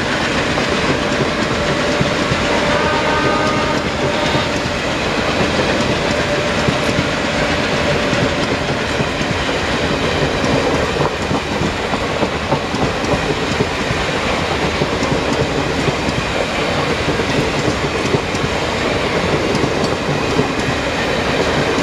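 Train running at speed: a steady, loud rumble and rattle of coaches, with wheels clacking over rail joints.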